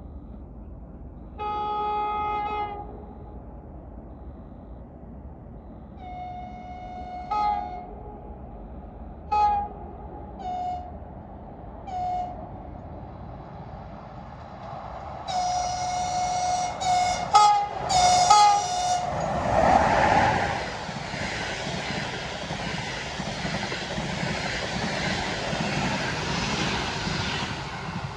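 EP20 electric locomotive sounding its horns as it approaches: a long lower blast about a second and a half in, then a run of short higher whistle blasts, several in quick succession before it passes. From about two-thirds of the way through the passing train gives a loud, steady rushing and rolling noise.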